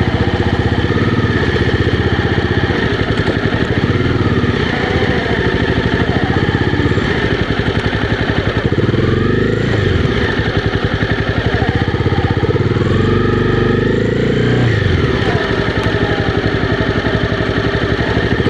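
Honda CB300R's single-cylinder engine running under way, its note rising and falling a couple of times with changes in throttle.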